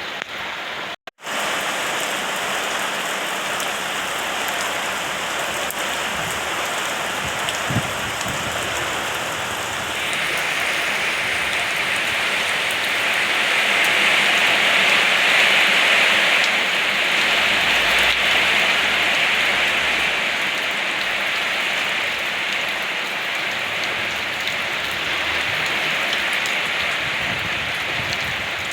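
Rain falling in a steady, even hiss, cut by a split-second drop-out about a second in. It grows louder from about ten seconds in and is heaviest around fifteen seconds.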